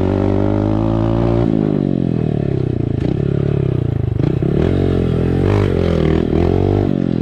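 Motorbike engine running while being ridden: steady for about a second and a half, then dropping in pitch and rising and falling with the throttle, with some clattering.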